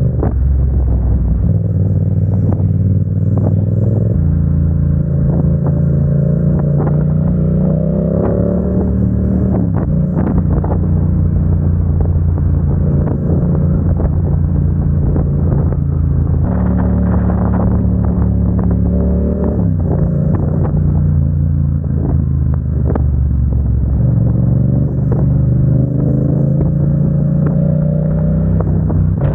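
Motorcycle engine running under way, its note stepping up and down several times as the revs change, with a rise and then a drop about nine seconds in like a gear change. Wind buffets the microphone now and then.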